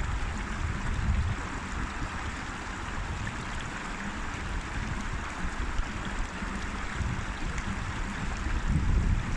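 River water flowing steadily over rocks, an even rushing, with a low rumble swelling about the first second and again near the end.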